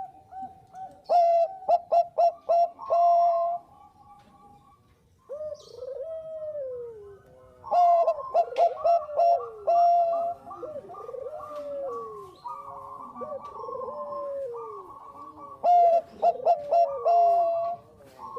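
Bangkok-type perkutut (zebra dove) calling. Several bouts of quick staccato coos each end in a held note, with softer falling coos between the bouts.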